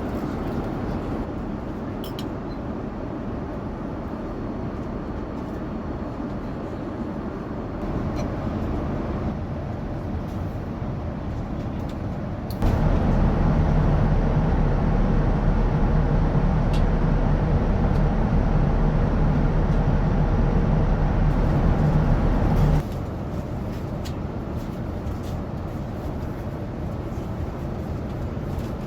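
Steady cabin noise of a Boeing 787-9 in flight: a constant low rushing drone of air and engines. About thirteen seconds in it jumps suddenly louder, with a steady low hum, and about ten seconds later drops back just as suddenly.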